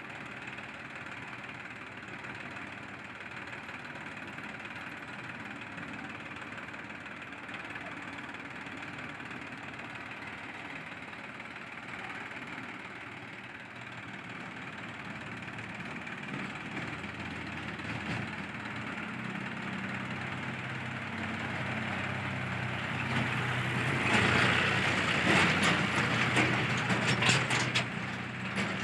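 JCB 3DX backhoe loader's diesel engine running steadily, then revving up and working harder about two-thirds of the way in. In the last few seconds it is joined by a loud clatter of metal clanks and scraping.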